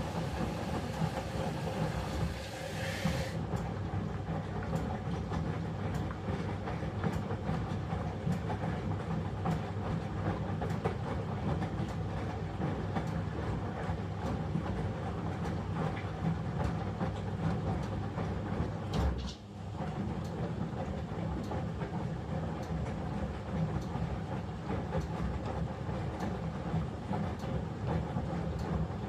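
Eudora 38 Super washing machine running: a steady low motor hum with regular clicking from the mechanism. A high hiss cuts off suddenly about three seconds in, and there is a brief low thump about two-thirds of the way through.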